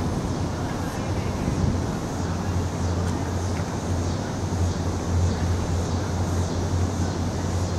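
Distant SD70MAC diesel-electric locomotive, an EMD 710 two-stroke engine, hauling a ballast train: a steady low engine hum over a constant wash of train noise.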